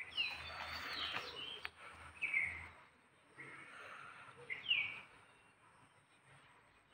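Bird calls: three short chirps that fall in pitch, about two seconds apart, over a light background hiss, with one brief click in between.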